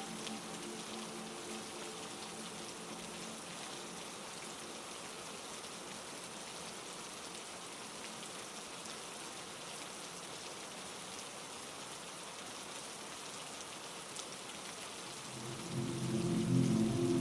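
Heavy rain falling in a steady wash. Low steady tones sound under the rain, fade out in the first few seconds and come back louder near the end.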